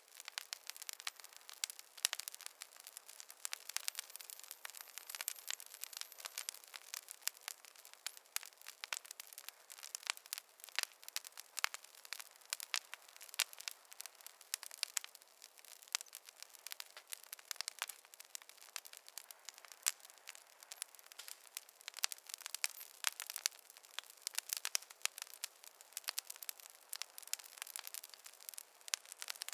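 Campfire crackling, with many sharp, irregular pops and snaps over a faint hiss.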